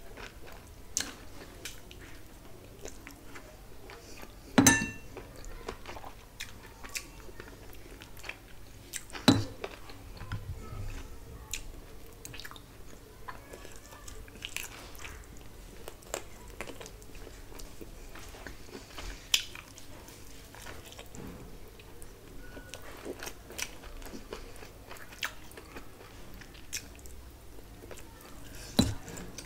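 A person chewing and biting curried meat on the bone, close to the microphone, with a steady run of small wet clicks. Sharp crunches stand out about five seconds in, about nine seconds in, about nineteen seconds in and near the end.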